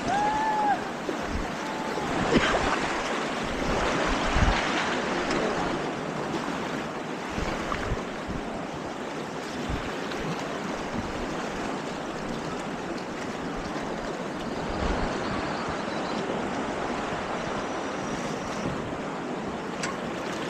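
River rapids rushing in a steady, even noise, with wind on the microphone. A short pitched call arches up and down in the first second.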